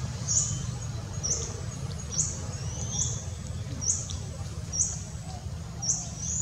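A bird's short, high chirp repeated evenly about once a second, over a steady low rumble.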